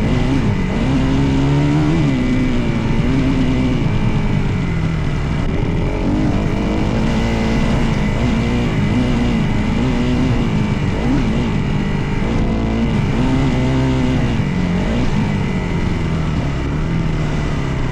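Dirt bike engine running under load while being ridden, its pitch rising and falling over and over as the throttle is opened and closed and the gears change.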